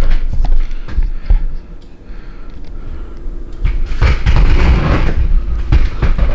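Heavy thumps and rumbling handling noise with rustling and scraping of cardboard and foam packing as a large, heavy espresso machine is worked out of its box. Quieter for a couple of seconds in the middle, then loud again near the end.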